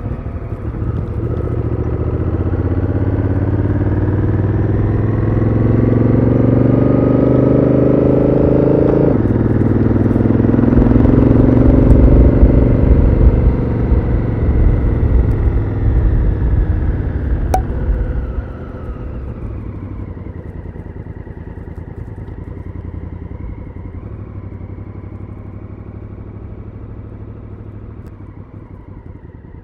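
Honda Africa Twin CRF1000L's 998 cc parallel-twin engine through its stock exhaust, heard onboard. It accelerates, and the note drops suddenly about nine seconds in as the DCT gearbox shifts up. It pulls again, then eases off, and the note falls and fades over the last ten seconds as the bike slows.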